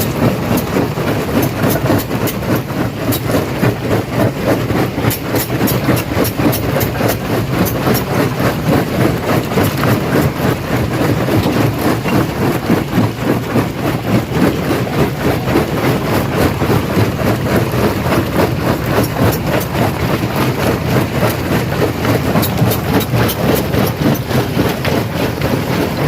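Rock crusher running under load: a steady, heavy machine drone with continuous cracking and clattering of stones being broken.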